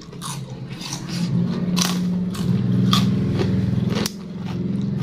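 Close-up crunching and biting as raw vegetables dipped in sambal are chewed, with sharp crunches about one second apart. A low steady hum runs under it and stops near the end.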